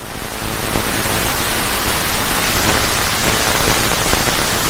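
Storm sound effect of heavy rain: a dense, steady hiss of downpour that fades in over about the first second.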